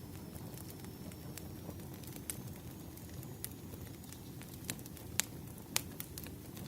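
Wood fire burning: a steady low rumble of burning logs with irregular sharp crackles and pops, a few louder pops in the second half.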